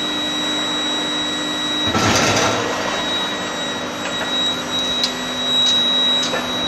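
Factory machinery running with a steady hum and a constant high-pitched whine. A loud, short rushing noise comes about two seconds in, followed later by a few light clicks.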